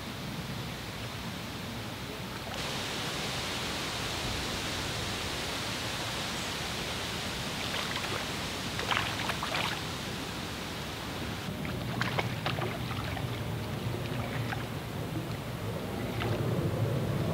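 Steady outdoor hiss with a few short, light clicks around the middle and a low rumble that builds near the end, typical of wind on the microphone.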